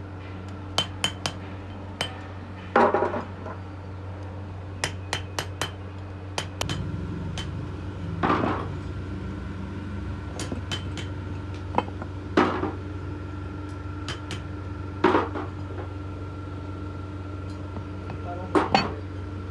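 Metal tools and metal pieces clinking and knocking in irregular sharp clicks, with about five heavier knocks spaced a few seconds apart, over a steady low hum.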